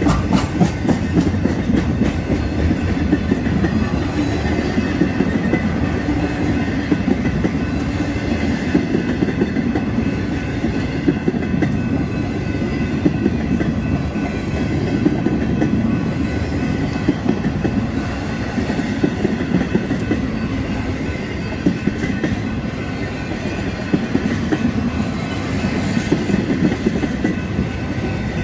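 Freight train of empty intermodal cars rolling steadily past, wheels rumbling and clicking over the rail joints. A grade-crossing bell rings steadily over it.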